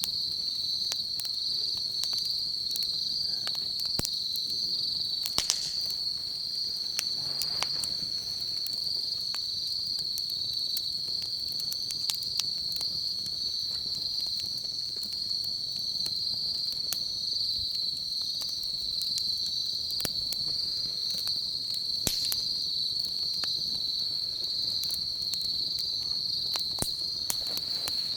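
Steady high-pitched chirring of insects such as crickets, with the irregular snaps and pops of a crackling wood fire scattered throughout.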